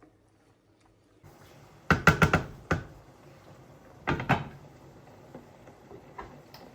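Sharp knocks from objects being handled: a quick run of five or six about two seconds in, then two more about four seconds in, with faint ticks after.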